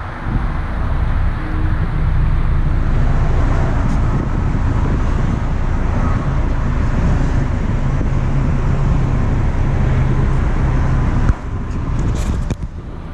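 Steady vehicle noise: an engine running with road-traffic rumble, a low steady hum that cuts off abruptly about eleven seconds in.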